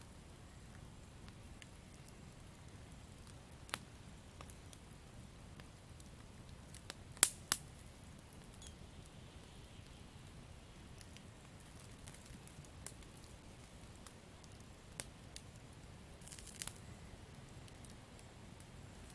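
Wood campfire crackling: a faint steady low hiss broken by scattered sharp pops and snaps, the loudest a pair about seven seconds in and a small cluster near the end.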